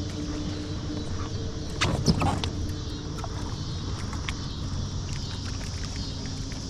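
Steady low drone of a distant motor running, with faint steady tones in it. About two seconds in, a brief cluster of loud knocks and clatter, followed by scattered light ticks.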